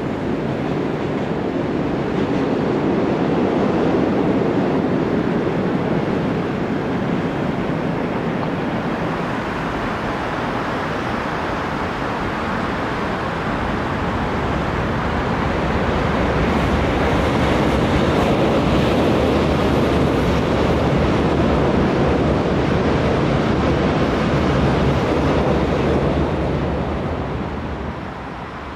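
Electric commuter train rolling across a railway bridge: a steady rumble of wheels on rail that swells twice as trains pass and falls away near the end.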